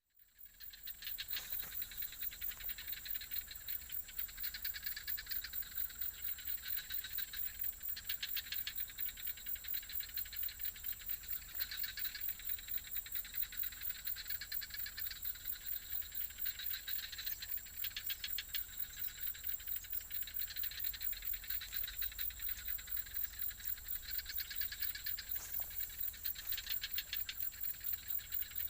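Dense chorus of insects chirring steadily, a continuous high buzz with fast pulsing that swells and eases every few seconds.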